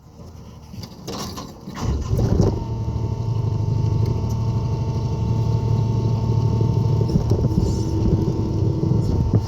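Skid steer engine running. It comes up loud about two seconds in, then holds a steady hum with a steady whine above it.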